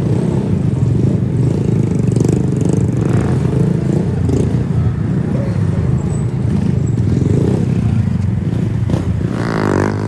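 Small mini bike engine running with a steady rumble, then revving with a rising pitch near the end.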